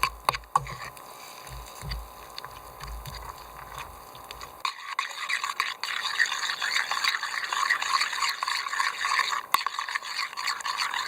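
A few clicks and knocks over a low rumble, then, about four and a half seconds in, rapid continuous scraping or scrubbing begins.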